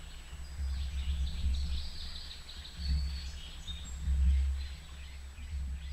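Small birds chirping in short high calls in the background, over a louder low rumble that swells and fades several times, with a steady low hum and a faint steady high whine.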